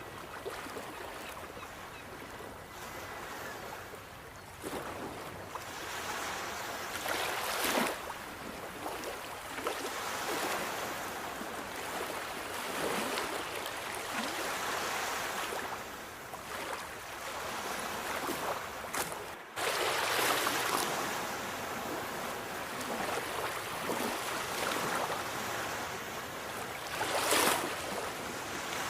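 Sea waves washing onto a shore, a steady rush of surf that swells and falls back. Louder breakers come about 8 s in, just after a brief sudden drop near 20 s, and again near the end.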